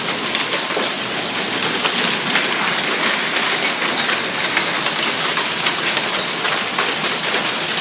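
Heavy rain mixed with hail coming down steadily: a dense hiss with many sharp ticks of hailstones striking.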